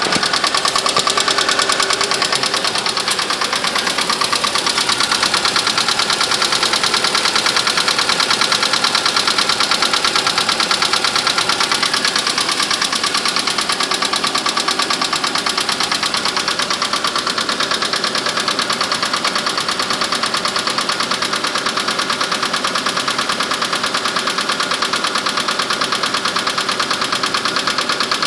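Mitsubishi Mirage engine running cold with a rapid, steady knocking: piston slap, which comes on in cold weather and goes away once the engine warms up.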